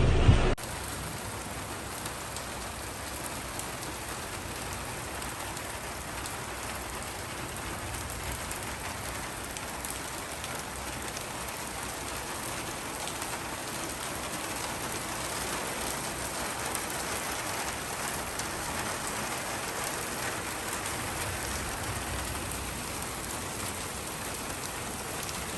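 Heavy rain pouring down steadily, an even hiss of rain on surfaces. A louder sound cuts off abruptly about half a second in.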